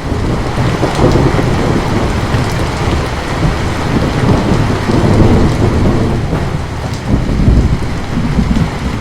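Heavy rain pouring down, with a deep rumble underneath that swells and eases several times.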